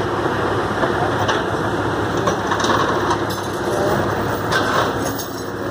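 Heavy truck engine running steadily, with a few faint mechanical clicks over it.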